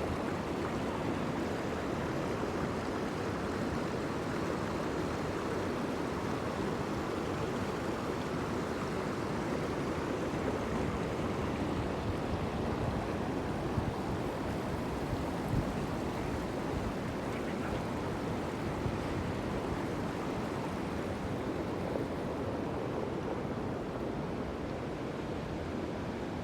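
Steady rush of water, an even noisy wash that holds level throughout.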